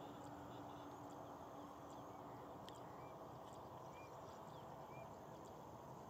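Quiet outdoor ambience with a faint steady background hiss, broken by a few faint, short bird chirps about a second apart in the middle. A faint low hum stops about halfway through.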